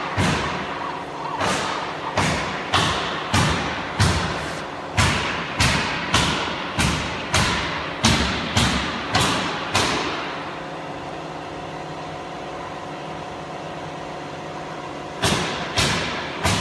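Repeated sharp knocks, about two a second, over a steady machine hum; the knocks stop for about five seconds, leaving only the hum, then start again near the end.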